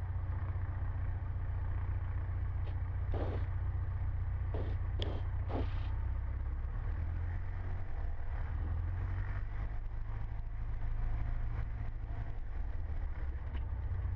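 Cessna 150's four-cylinder Continental O-200 engine running at low taxi power, heard from inside the cockpit as a steady low drone. A few brief knocks sound between about three and six seconds in.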